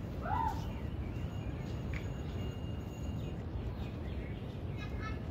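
Outdoor ambience: a steady low rumble with a bird's short arched call about half a second in, and a few fainter chirps near the end.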